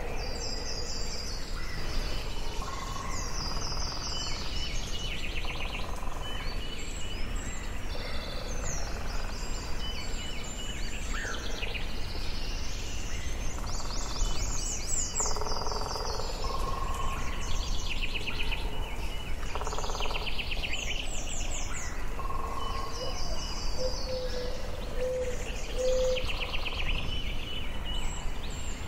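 Forest ambience: several birds singing and calling, with short repeated trills and chirps overlapping throughout, over a steady low background rumble.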